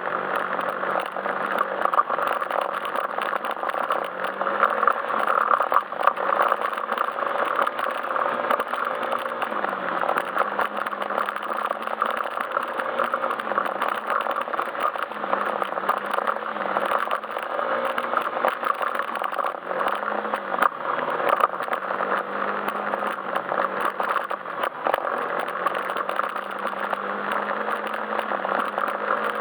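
Yamaha Majesty S scooter's single-cylinder engine running steadily under way, its pitch dipping briefly now and then as the throttle eases, over steady wind and road noise.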